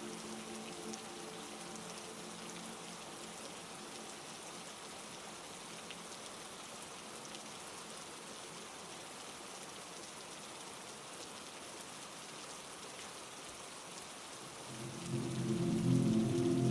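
Steady heavy rain, an even hiss of drops falling on a surface. A low droning tone with several pitches fades out in the first couple of seconds and swells back in, louder, about 15 seconds in.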